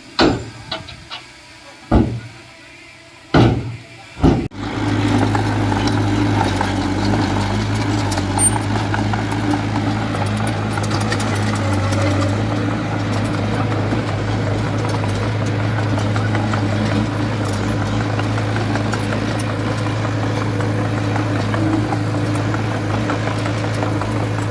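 Four sharp knocks in the first four seconds, then a heavy earthmoving machine's diesel engine starts being heard and runs steadily at a constant speed.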